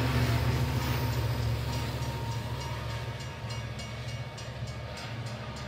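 Railway train running: a heavy low rumble with a regular clickety-clack of wheels at about four beats a second, slowly fading away.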